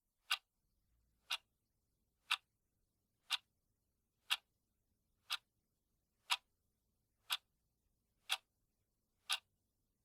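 Clock ticking, one short sharp tick every second, ten ticks in all, marking off the last seconds of a countdown timer.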